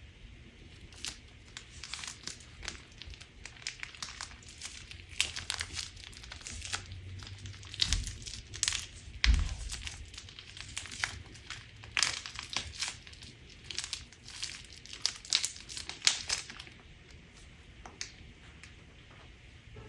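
Crunch slime being handled, giving a run of irregular crackles and crinkles that come thick and fast through the middle and thin out near the end.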